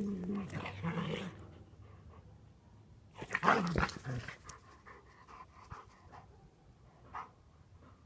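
Dogs growling and vocalizing at each other in a scuffle, with the loudest outburst about three and a half seconds in and a short call near the end.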